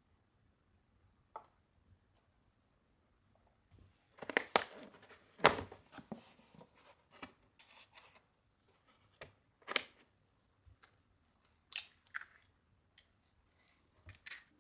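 Irregular sharp snips and clicks with light rustling in between, the sounds of small objects being handled up close, starting about four seconds in.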